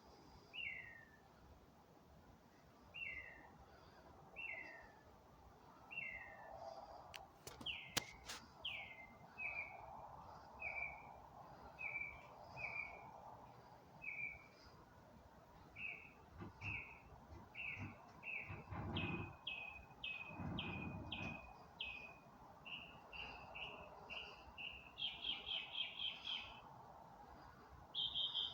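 A bird singing in the dark: short, downward-slurred notes about once a second, changing partway through to other repeated note types and then to fast stuttering bursts near the end. Two faint sharp clicks come about eight seconds in, and two low rumbles come around nineteen and twenty-one seconds.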